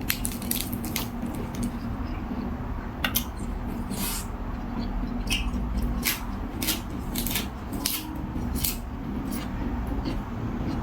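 A person eating noodle soup and raw vegetables: a string of short, crisp clicks and crunches, about one or two a second, with utensils clinking on a bowl, over a faint steady hum.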